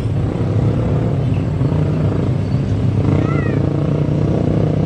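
Steady, loud engine rumble, with a short high chirp a little over three seconds in.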